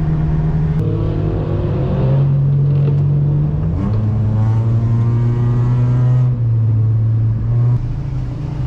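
2004 Honda Civic coupe's four-cylinder engine pulling under acceleration. Its note climbs and then drops back several times, as on gear changes.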